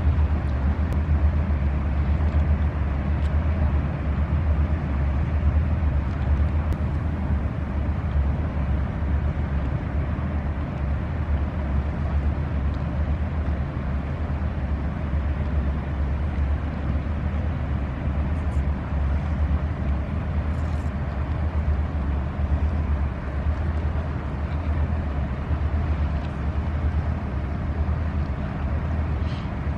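Inland cargo motor barge's diesel engine running steadily as it passes, a continuous low rumble.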